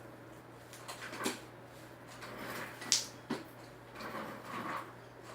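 Slime being stretched and handled, making a few soft sticky pops and rustles, with one sharp click about three seconds in, over a faint steady low hum.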